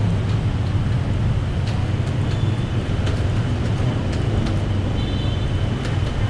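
Busy city-street traffic: a steady low rumble of engines and road noise from vehicles on a main road, with faint scattered ticks and a brief high tone about five seconds in.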